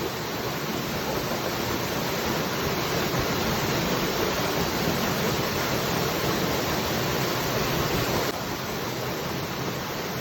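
Waterfall: a steady rush of falling water, which drops a little in loudness all at once about eight seconds in.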